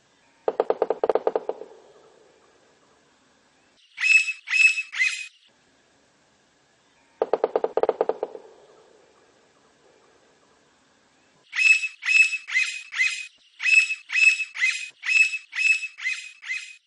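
Blond-crested woodpecker: two rapid drum rolls of about a second each, alternating with runs of loud, ringing call notes that fall slightly in pitch. The first run is three notes; the second, near the end, is about fourteen notes in quick succession.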